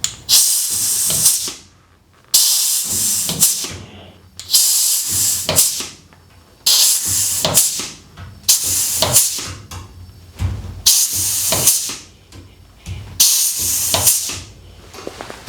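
A pneumatic air tool hissing in about seven bursts of roughly a second each, each starting suddenly, with short pauses between them. A low thump comes about two-thirds of the way through.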